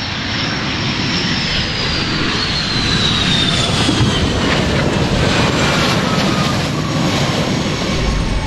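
F/A-18 Super Hornet's twin turbofan jet engines running loud and steady, with a high whine that falls slowly in pitch.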